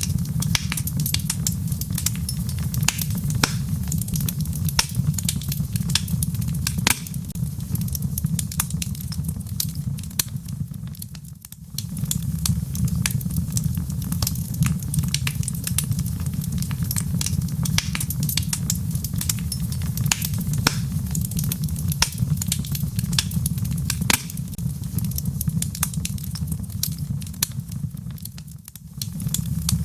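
Wood fire burning in a fireplace: logs crackling and popping in quick, irregular snaps over a steady low rumble of the flames. The rumble dips briefly twice, about a third of the way in and near the end.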